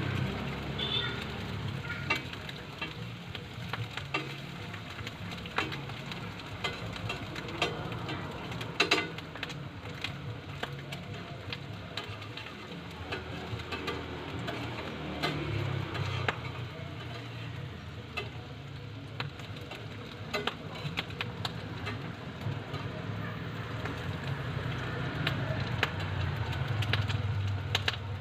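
Food sizzling on a hot griddle, with frequent sharp clicks of metal utensils and a low rumble underneath.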